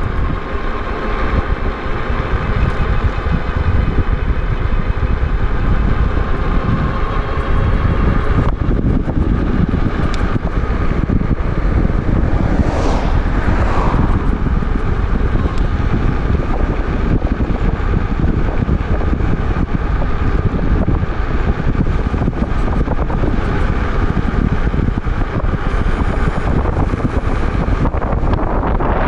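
Wind rumbling on the microphone of a moving e-bike, over a steady whine of several pitches that drops away about eight seconds in. A louder rush swells and fades about thirteen seconds in.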